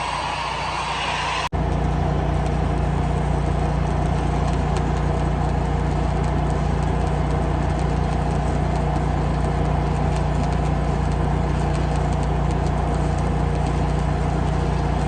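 Steady low hum of a running welding machine, with a faint crackle over it that fits a stick-welding arc. The sound drops out for an instant about a second and a half in, then carries on unchanged.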